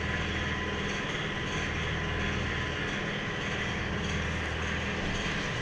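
Steady low machine hum with a constant hiss, unchanging throughout.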